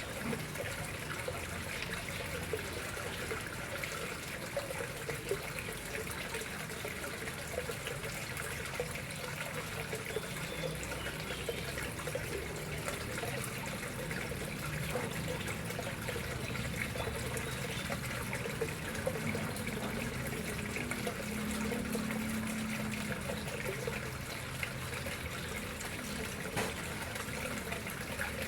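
Water flowing and trickling steadily into a koi pond, with a faint low hum underneath.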